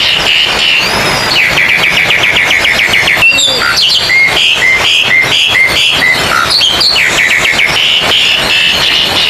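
Several oriental magpie-robins singing loudly over one another, a contest chorus: fast trills of repeated notes, a row of short whistled notes repeated about twice a second, and sharp rising whistles.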